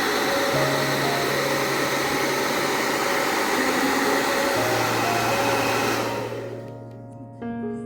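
Hair dryer blowing steadily, dying away about six seconds in, with piano music underneath that carries on alone near the end.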